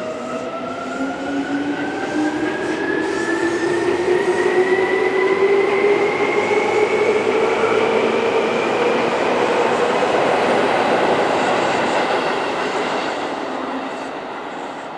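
Seibu 10000 series electric limited-express train passing through a station, its motor whine rising steadily in pitch as it picks up speed over the rumble of the wheels. It grows louder as the train draws level, then fades near the end.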